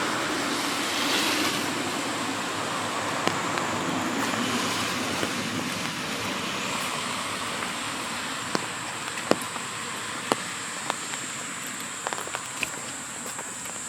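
Steady rain on a city street, with a car passing on the wet road in the first seconds, then scattered sharp taps of falling drops. A thin, high, steady whine comes in about halfway.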